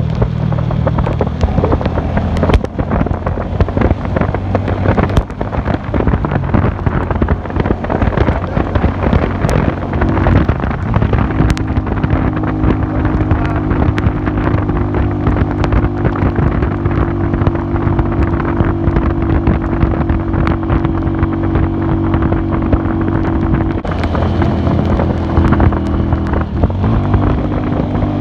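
Classic Earl 150 cafe racer motorcycle engine running under way, with wind buffeting the microphone. The engine note shifts about ten seconds in and again twice near the end.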